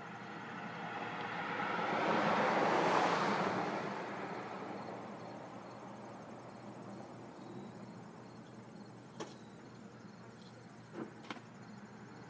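A car passing by, its road and engine noise rising, peaking about three seconds in and fading away. A few light clicks follow near the end.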